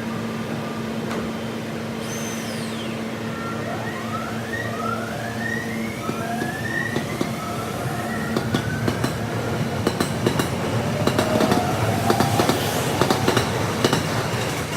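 A train running, sped up to double speed: a steady hum with several rising whines in the first half, then rapid clattering of the wheels over the rails growing louder from about halfway.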